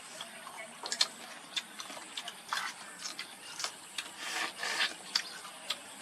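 Close-miked eating of spicy fried crab: irregular sharp cracks and clicks of shell being broken apart, with a few short noisy bursts of chewing in between.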